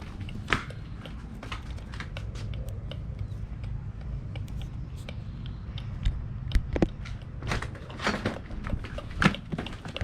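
Air-conditioner condensing unit running with a steady low hum, under scattered sharp clicks and knocks from close handling, loudest in the second half.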